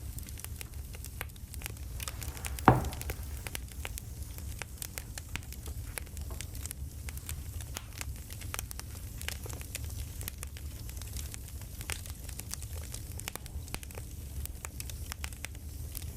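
Crackling campfire: a steady run of small snaps and pops over a low rumble, with one louder, sharper crack close to three seconds in.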